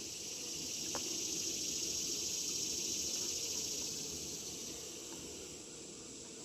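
Insects droning outdoors: a high, hissing drone that swells for a few seconds and then fades, over a lower steady buzz.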